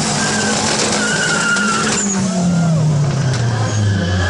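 Car doing a burnout: tyres spinning and squealing under a loud engine held at high revs, then the engine note falls steadily from about two seconds in as the driver backs off.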